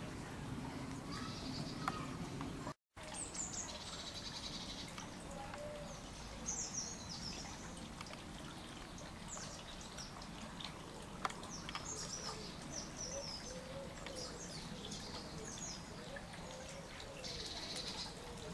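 Birds chirping and singing: short high calls and trills come again and again over a steady outdoor background hiss. The sound drops out completely for a moment about three seconds in.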